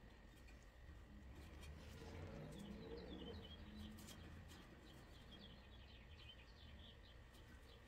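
Near silence, with faint bird chirps in the background: short, quick high chirps repeated from about two seconds in.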